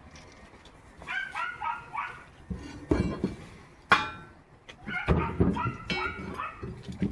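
A dog's short, high whines and yips in two bouts, with a few sharp knocks in between.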